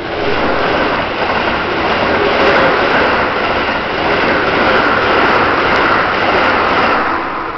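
Keikyu electric train passing close by at speed, a loud rush of wheels on rails that sets in sharply and begins to fade near the end.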